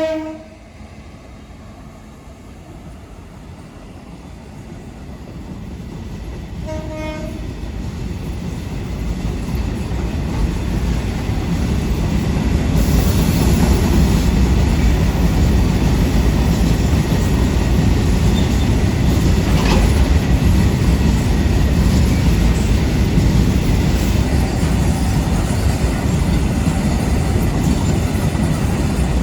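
CC 202 diesel locomotive hauling an oil tank train: the tail of a horn blast at the start and a short horn toot about seven seconds in, then the train's rumble growing louder as it approaches and running steadily loud as it passes, with wheels clattering over the rail joints.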